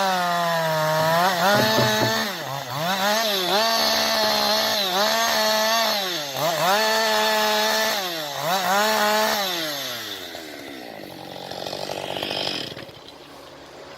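Chainsaw cutting through wood, its engine pitch dipping under load and climbing back again several times. About ten seconds in, the engine drops away and it goes much quieter.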